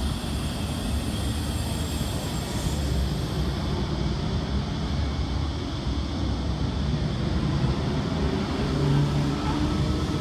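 V-set double-deck electric train moving slowly at the platform, with a steady low rumble; near the end its motors set up a whine of several tones rising together in pitch as it gathers speed.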